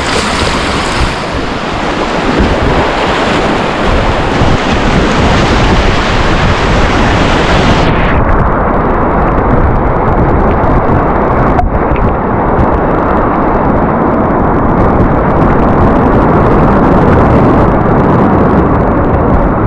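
Loud, steady rush of whitewater rapids mixed with wind buffeting the camera's microphone. About eight seconds in, the hiss drops away, leaving a duller rush.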